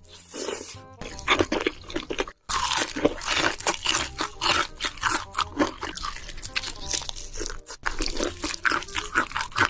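Close-miked eating sounds: loud, rapid crunching as someone bites and chews crisp food, with quiet background music under it. It breaks off briefly twice, where one eating clip cuts to the next.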